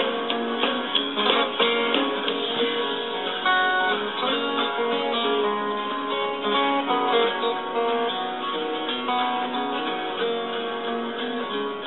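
Instrumental break of a country karaoke backing track: guitar-led music with picked and strummed notes and no vocals.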